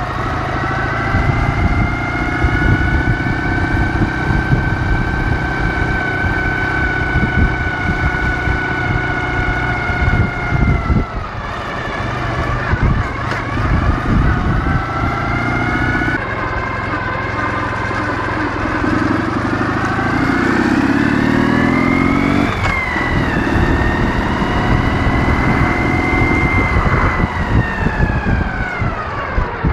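Ural motorcycle's 650 cc flat-twin engine pulling under way, a steady pitched drone with the revs dropping about eleven seconds in and again about twenty-two seconds in, like gear changes, then falling away near the end as it slows.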